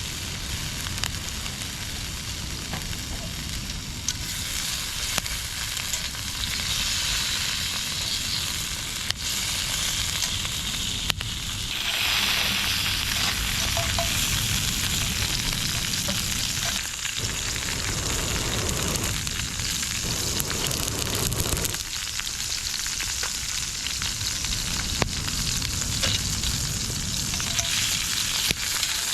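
Food sizzling in a hot pan over a campfire: a steady frying hiss that grows louder about twelve seconds in and shifts in strength a few more times, with an occasional click.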